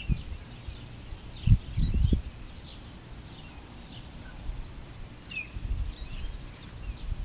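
Wild birds chirping, many short calls with a fast trill late on, over a steady outdoor background. Two low thumps come about a second and a half and two seconds in.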